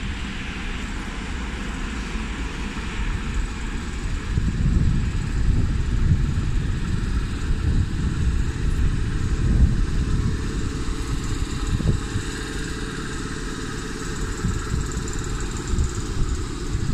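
A railway train running past with a steady low rumble that wavers in level, with a faint steady tone above it.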